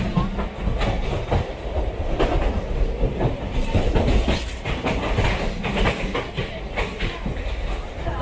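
Express passenger coach running at speed: its wheels clatter irregularly over rail joints and points, over a steady low rumble of the train on the track, heard from the open doorway.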